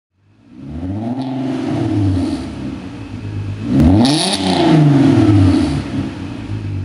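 Volkswagen MKV R32's 3.2-litre VR6 engine through an aftermarket prototype exhaust, revving: the pitch falls, then sweeps sharply up about four seconds in and drops again, loudest at that rise.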